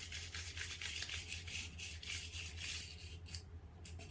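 A quick run of rasping, rubbing strokes, several a second, breaking off briefly near the end, over a low steady hum.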